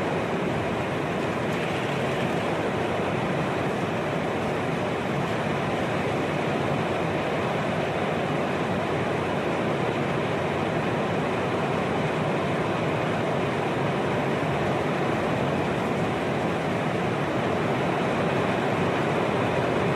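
Heavy rain in a windstorm, a steady, even rushing noise that does not let up.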